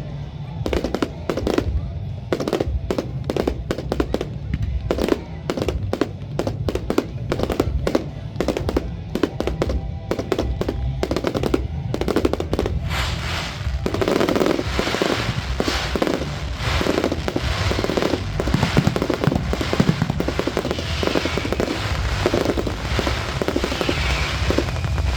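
Fireworks finale: rapid-fire volleys of shots going off several a second, building about halfway through into a dense, continuous crackle of many shells and crackling stars at once.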